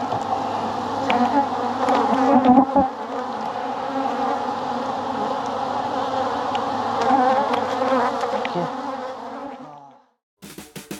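Honeybee colony buzzing steadily from an open hive as its frames are handled, with a light knock a few seconds in. The buzz fades out near the end.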